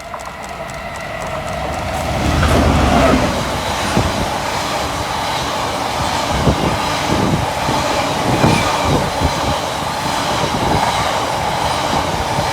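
A train running past at close range: the rush of wheels on rail grows over the first couple of seconds, then holds steady and loud, with wheels clicking over the rail joints.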